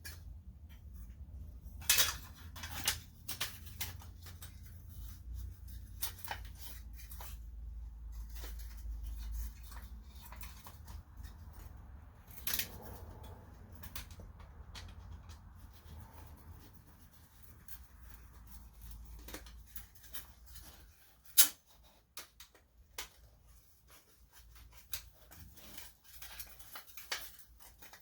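Scattered clicks and clinks of small metal headlight parts being handled and fitted back together, with one sharp click about two-thirds of the way through. A low hum underneath fades out around the same point.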